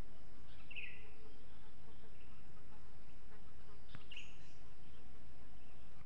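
Two short, high bird chirps, one about a second in and another just after four seconds, over steady outdoor background noise, with a single faint click just before the second chirp.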